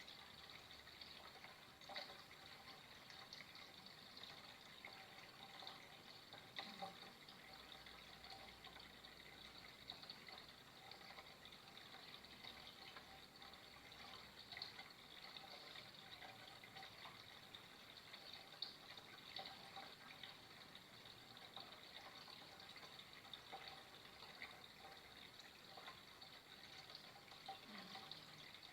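Faint, steady flow of running water, with a few brief sharper splashes or drips standing out now and then.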